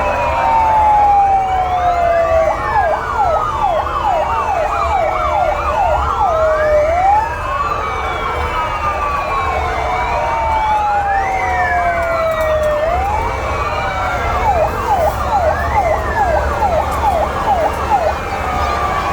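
Several fire engine sirens sounding at once, overlapping: long slow falling wails, fast up-and-down yelps and alternating two-tone horn notes, over a low engine rumble.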